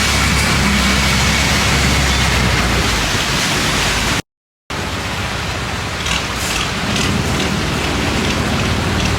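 Long-tail boat engine running steadily under a loud rush of wind and water spray. About four seconds in the sound cuts out completely for half a second, and afterwards the engine's low drone is weaker under the rushing noise.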